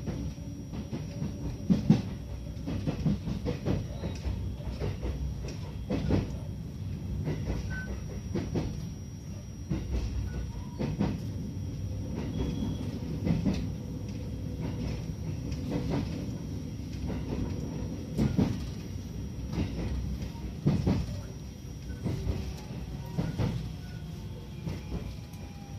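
Electric train heard from inside the car as it rolls slowly into a station: a steady low rumble with irregular clacks as the wheels cross rail joints and points. Faint falling squeals come near the end as it slows.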